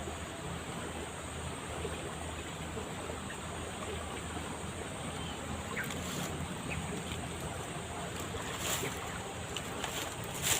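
Steady rush of a fast-flowing river, with a few faint clicks in the second half.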